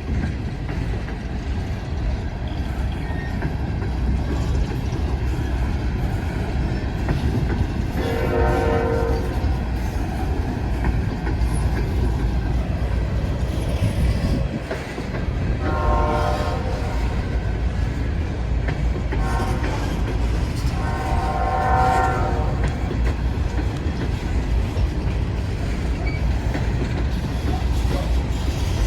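Empty steel coal hopper cars rolling past slowly, a steady low rumble with clickety-clack from the wheels on rail joints. A train horn sounds several blasts of a second or two each, about 8, 16 and 21 seconds in, with another starting near the end.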